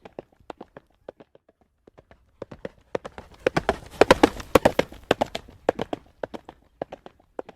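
Horse's hooves trotting on a paved road in a steady clip-clop rhythm, fading briefly about a second in, then growing louder and denser around the middle before easing off again.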